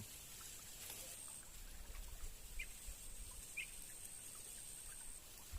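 Quiet outdoor ambience: a faint steady hiss with a thin high whine, and two short bird chirps about two and a half and three and a half seconds in.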